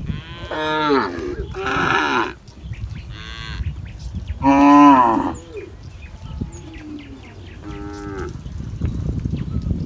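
Cattle mooing: about five separate moos, some falling in pitch, with the loudest about halfway through. A steady low rumbling noise runs underneath.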